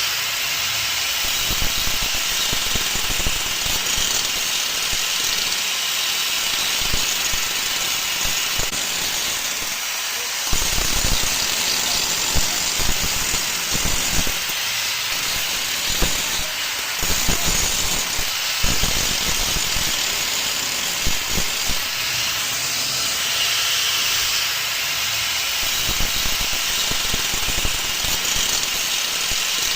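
An engine running steadily under a constant hiss, with irregular low rumbling pulses that grow stronger near the middle.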